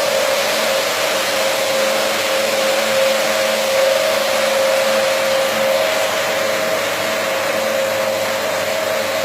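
Carpet washing machine running steadily: a constant motor whine over an even rushing noise.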